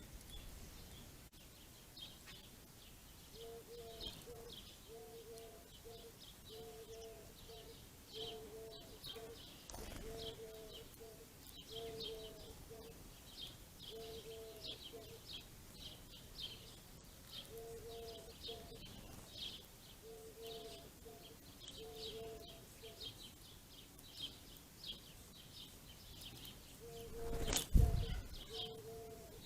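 A flock of small ground-feeding songbirds (house sparrows, house finches, pine siskins) chirping steadily, with a lower, repeated short tone in runs beneath them. A brief loud rush near the end.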